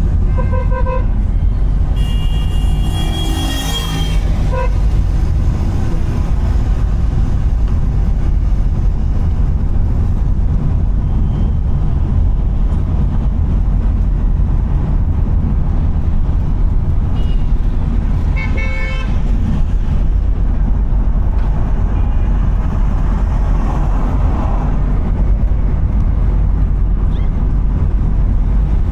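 Steady low rumble of a car driving on the road, with vehicle horns honking over it: short beeps near the start, longer horn blasts about two to four seconds in, and a quick run of beeps about two-thirds of the way through.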